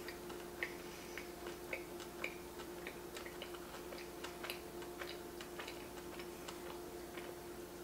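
Close-miked chewing of a donut topped with Reese's Pieces: faint, irregular small mouth clicks, with no steady rhythm.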